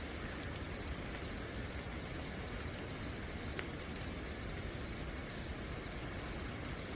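Steady rain falling at night, with crickets chirping continuously at a high pitch over the rain's even hiss. A single sharp tick or drip sounds about three and a half seconds in.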